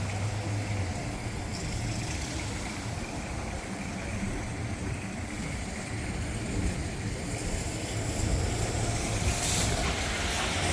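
Steady low rumble of outdoor background noise, typical of vehicles and traffic nearby.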